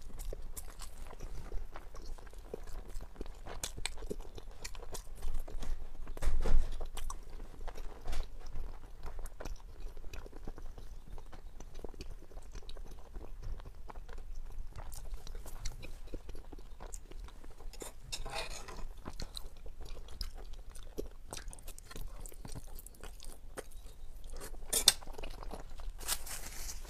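Close-miked chewing and biting of spicy sauced food, a steady run of crisp crunches and short clicks, with one louder burst about six seconds in.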